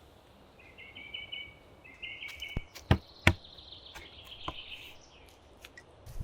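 A small bird singing trilled phrases over quiet forest ambience, broken by several sharp knocks, the two loudest about three seconds in.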